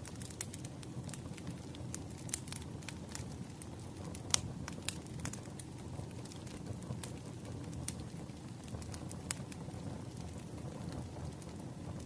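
Wood fire crackling: a steady low rumble with irregular sharp pops and snaps, one louder pop a little over four seconds in.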